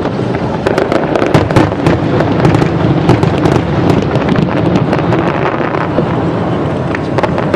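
Fireworks going off in a rapid barrage: a dense string of sharp cracks and bangs, several a second, over a steady noise.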